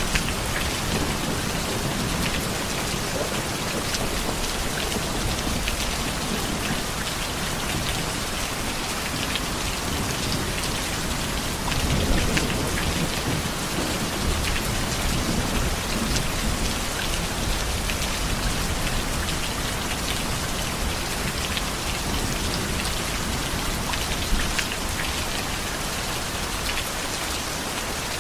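Heavy rain falling steadily, with drops pattering on a surface, and low rumbles of thunder that swell most strongly about halfway through.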